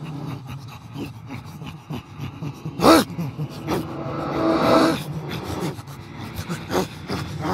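Plastic sheeting crinkling and rustling over a man's head as he struggles to breathe under it, with muffled gasps. A louder, sharper noise comes about three seconds in.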